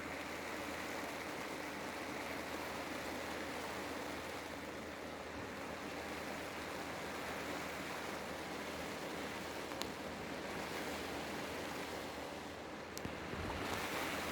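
Rain and wind on a polycotton tent: a steady, even hiss, with a few sharp ticks and a brief swell near the end.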